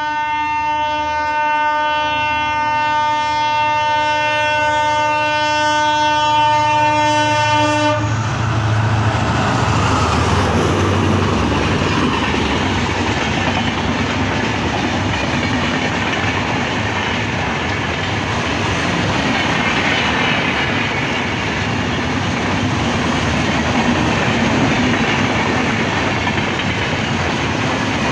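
Express passenger train running through a station at full speed without stopping: the locomotive sounds one long steady horn blast that cuts off abruptly about eight seconds in, then the coaches rush past with a steady rumble and clatter of wheels on rail.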